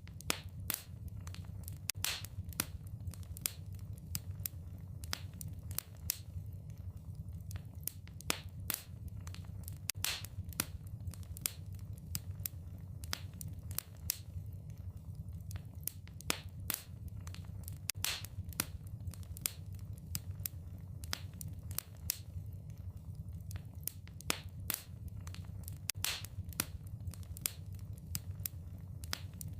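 Wood fire in a fireplace crackling, with irregular sharp pops and snaps several times a second over a low steady rumble.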